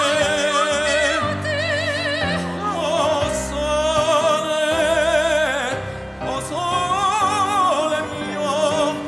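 Operatic singing with wide vibrato over an orchestral backing track, sung in a ventriloquist's act.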